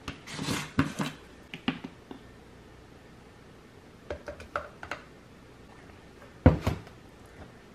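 Kitchen handling sounds while a scoop of protein powder is added to a smoothie: a short pour-like hiss, scattered taps and clicks of the scoop and container, and one sharp knock about six and a half seconds in.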